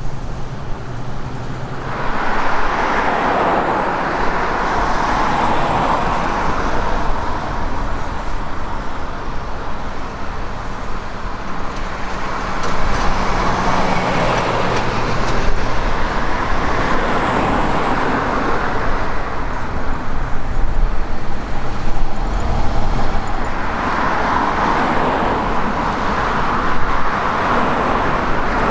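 Boeing 767 jet engines running, a loud continuous roar that swells and eases several times.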